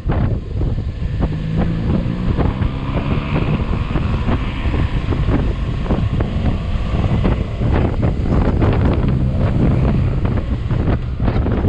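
Wind buffeting hard on the microphone of a moving motorcycle, with the engine's steady running faintly underneath.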